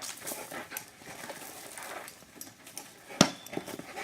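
Dog scrambling after a toy dragged on a string: scattered scuffs and patter of paws on the ground, with one sharp knock about three seconds in.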